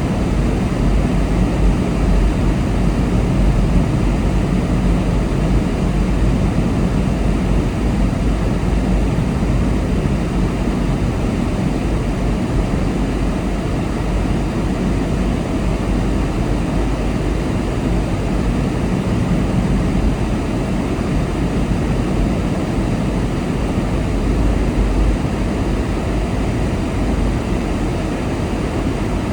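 Steady road and engine rumble of a car being driven, heard from inside the cabin, with a deep low drone and an even hiss of tyre and wind noise throughout.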